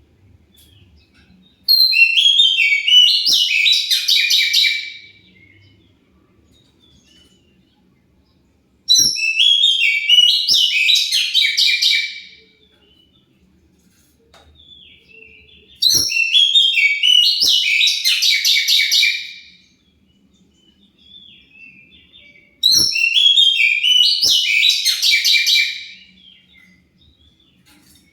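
Oriental magpie-robin (kacer) singing a loud, fast, varied song in four bursts of about three and a half seconds each, roughly seven seconds apart.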